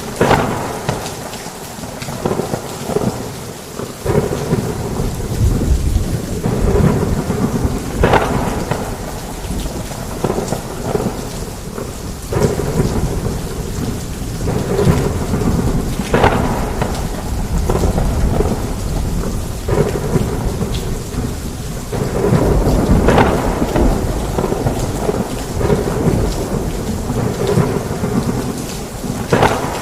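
Heavy rain falling steadily under rolling thunder, with a sharp crack of thunder about every eight seconds.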